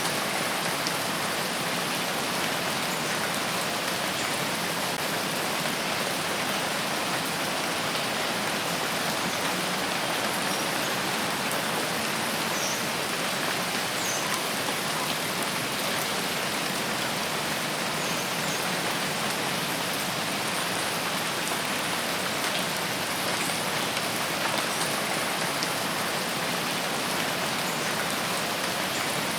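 Steady, dense rainfall on foliage: an even hiss of rain with scattered faint drop ticks.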